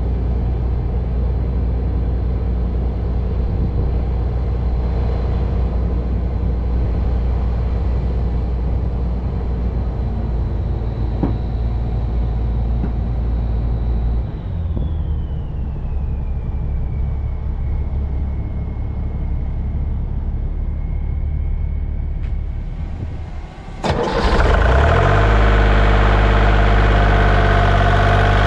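A heavy machine's engine running steadily, with a high whine that glides down in pitch about halfway through. Near the end the sound dips briefly, a sharp click follows, and then a louder, fuller engine sound takes over.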